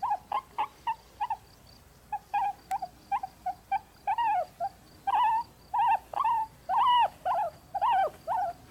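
A series of short animal calls, each arching up and then down in pitch, sparse at first and coming closer together and louder from about halfway through.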